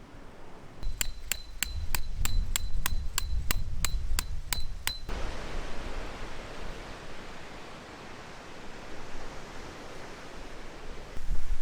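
A metal object struck about a dozen times at an even pace, roughly three strikes a second, each with a bright ringing note, stopping after about four seconds. Gusty wind noise follows.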